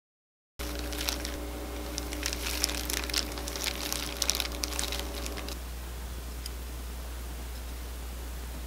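Roasted laver (gim) crinkling and crackling as it is handled, in light rustles and crunches for about five seconds. The crackles fade out, leaving a faint steady hum.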